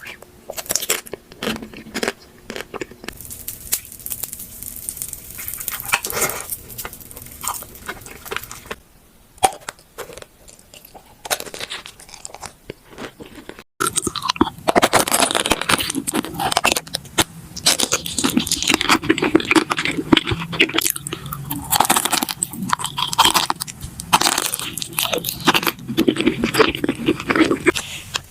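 Close-miked eating sounds: crisp bites and crunchy chewing of food. About 14 s in the sound cuts abruptly to a louder, denser run of crunching and chewing.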